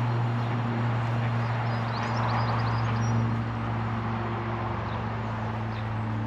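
A steady low machine hum, with small birds chirping faintly and briefly throughout.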